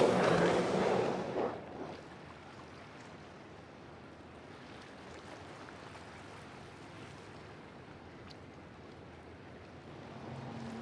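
A motorboat's engine running loud, fading away within the first two seconds, then a steady faint hiss of wind and water; another boat engine comes up near the end.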